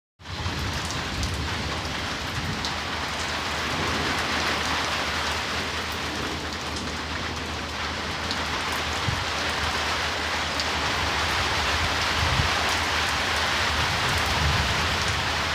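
Heavy rain falling during a thunderstorm: a steady hiss of rain on surfaces, with scattered individual drop ticks.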